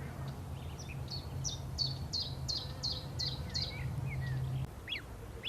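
A small bird singing a run of about seven short, high chirps, each sweeping downward, repeated about three times a second, with a few fainter lower notes. A steady low hum underneath stops about four and a half seconds in.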